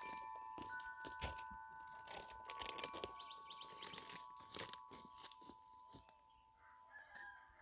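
Crinkling and crunching from handling a bag of bird seed while filling feeders, in a run of short rustles and clicks. Wind chime tones ring on and slowly fade behind it.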